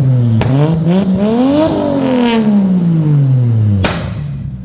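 Straight-piped RB30 turbo straight-six revved up and then falling back, ending with a sharp bang from the exhaust about four seconds in: the overrun bangs of a map with retarded decel timing and fuel cut turned off.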